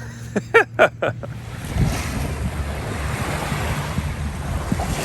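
Waves and surf washing steadily, with wind buffeting the microphone; a few spoken syllables come in the first second before the water and wind take over.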